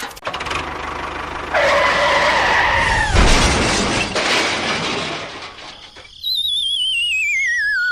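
Added sound effects: a held squeal about a second and a half in, then a loud crash with shattering at about three seconds, and near the end a wobbling whistle sliding down in pitch.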